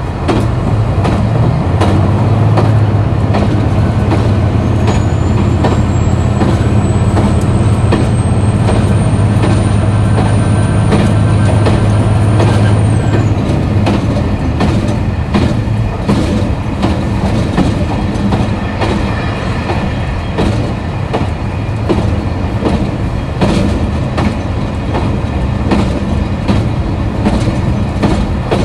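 KiHa 261 series diesel railcar running under power: a steady low engine drone with a thin high whine that slowly rises in pitch, then the engine eases off a little before halfway and the whine falls away. Rail clickety-clack continues throughout.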